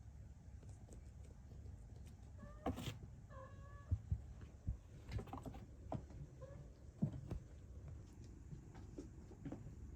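Kittens mewing a few short times, mostly around the middle, among scattered soft knocks and thumps; the sharpest knock comes about seven seconds in.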